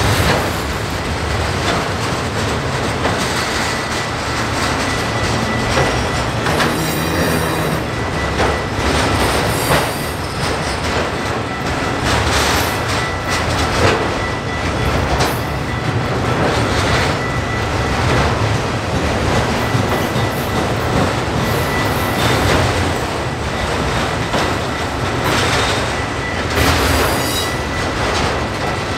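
Freight train of autorack cars rolling past at close range: a steady rumble with wheels clacking over the rail joints.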